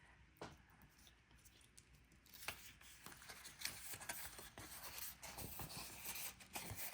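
Cut cardstock pieces being handled and slid against each other on a work surface: light rustling, scraping and small taps, sparse at first and busier from about two seconds in.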